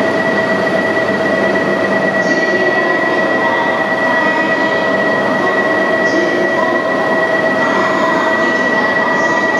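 An E7 series Shinkansen train standing at an underground platform before departure: a loud, steady mechanical hum with a constant high-pitched tone running through it.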